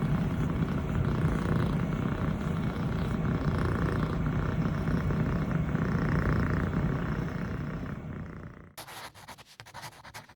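Scottish Fold kitten purring steadily while being petted; the purring fades and stops near the end, leaving a few faint rustles.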